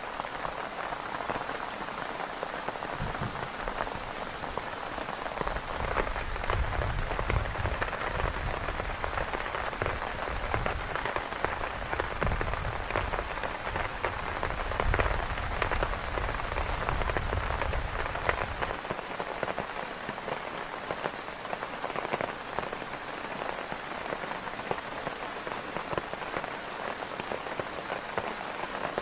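Heavy rain beating on a tent, a dense patter of drops. A low rumble runs underneath from a few seconds in and stops abruptly about two-thirds of the way through.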